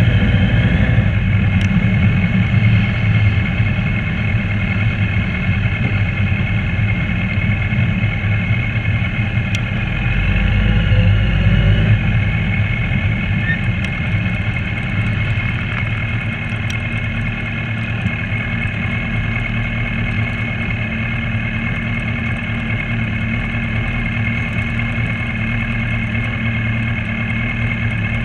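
Motorcycle engine heard from the rider's own bike, running at low speed in slow traffic with a steady drone; about ten seconds in it rises briefly in pitch as the bike pulls forward, then settles back to a lower, near-idle running.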